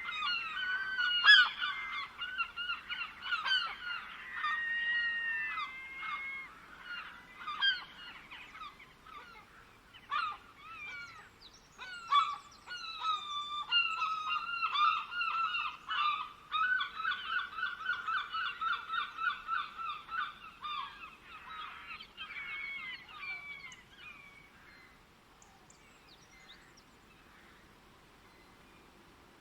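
Birds calling in a busy chorus of short, repeated calls, with a fast run of even notes about halfway through. The calls thin out and fade away after about 24 seconds.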